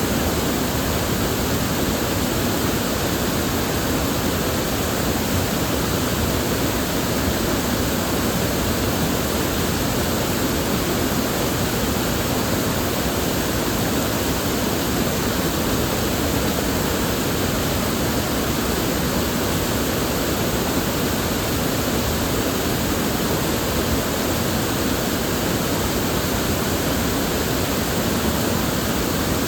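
River water flowing and rushing steadily, a constant even wash of sound.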